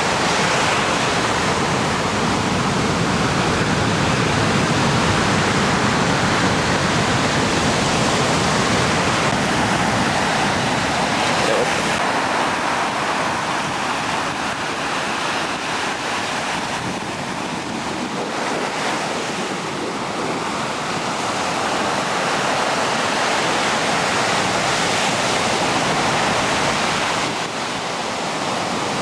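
Steady rushing wind noise buffeting the microphone, with no clear engine note standing out. It eases a little around the middle and again near the end.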